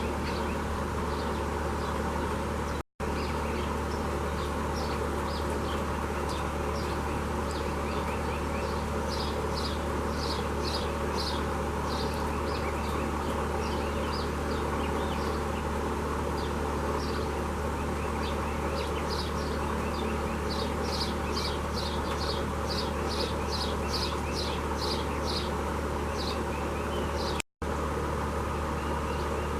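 Small birds chirping in quick runs of short, high notes over a steady low mechanical hum.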